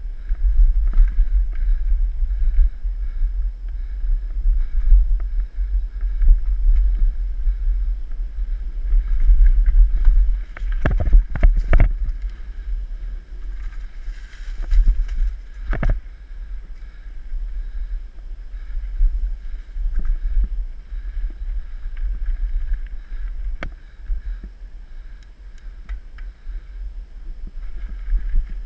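Wind buffeting the microphone of a mountain bike ride with the bike rattling over the trail, and a few sharp knocks from bumps, clustered about ten to twelve seconds in and once more a few seconds later.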